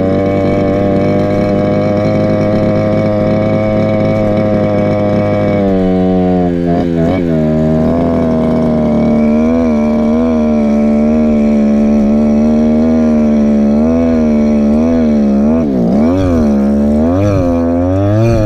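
Go-Ped scooter's small Chongyang CY26RC two-stroke engine running at a steady speed. From about six seconds in, its pitch rises and falls again and again as the throttle is eased on and off, with quick swoops near the end.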